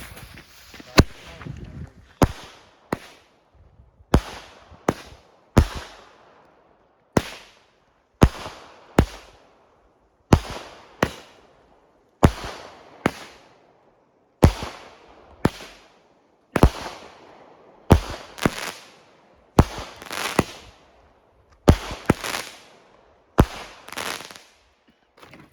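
Consumer fireworks going off in a long run of sharp bangs, roughly one to two a second, each fading quickly.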